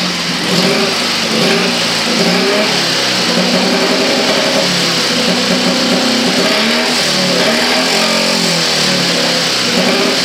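Dnepr motorcycle's K-650 flat-twin engine running on its first start through a new R75-style exhaust, its engine speed rising and falling as the throttle is worked.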